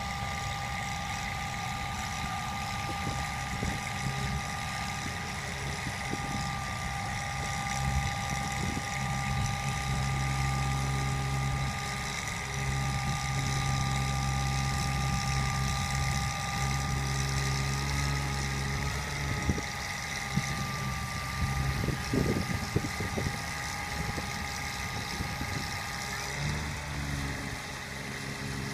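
Bucket truck running steadily: a constant low engine hum with a steady whine over it that stops near the end. A few knocks come a little after the middle.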